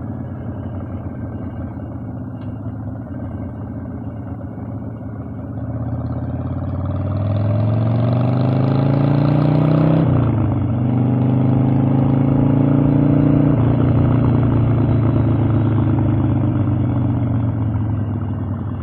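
Harley-Davidson Evolution V-twin engine under way. It runs steadily at first, then revs up and gets louder under acceleration from about six seconds in. The pitch drops sharply at an upshift about ten seconds in, climbs again, then slowly falls as the throttle eases near the end.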